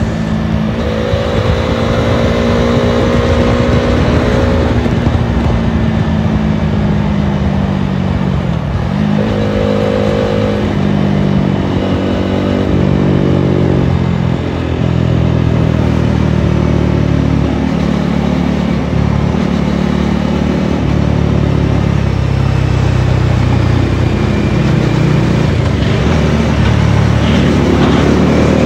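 Dominar 400 single-cylinder motorcycle engine at riding speed with wind rush on the microphone. The bike is slowing: the engine note drops in steps through several downshifts, then rises again near the end as it accelerates.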